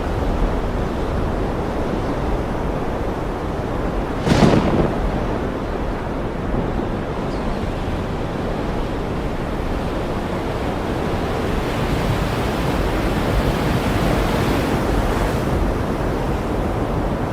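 Ocean surf washing in a steady, even rush, with one short sharp crash about four seconds in.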